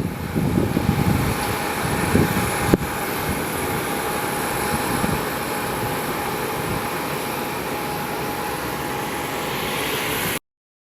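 Aircraft engines running steadily, a continuous roar with a thin steady whine, with a single sharp click a little under three seconds in. The sound cuts off abruptly near the end.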